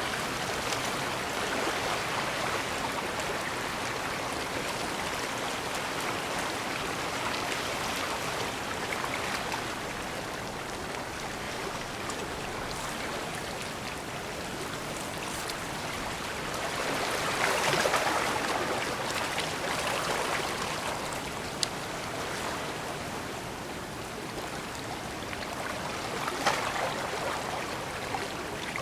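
Bay water washing against the shore in a steady rush, swelling louder for a few seconds past the middle and again briefly near the end, with a couple of sharp ticks.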